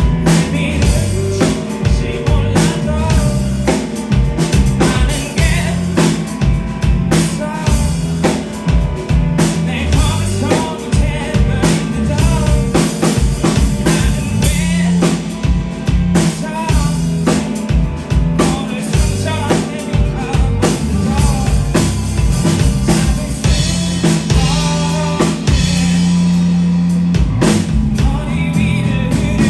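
Live band playing a song: a steady drum-kit beat with bass and guitars under a sung melody.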